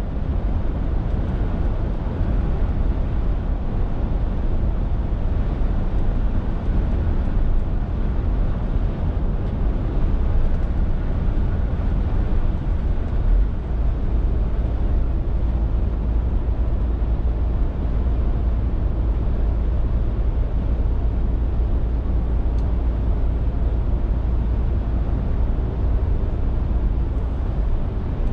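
Scania R450 lorry on the move, its 13-litre inline-six diesel engine giving a steady low drone under tyre and road noise.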